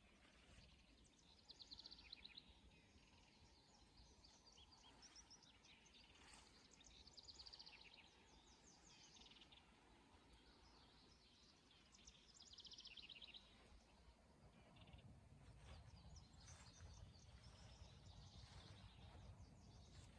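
Faint birdsong: a songbird repeats short trilled phrases every few seconds, with other birds chirping. A low rumble comes in about fifteen seconds in.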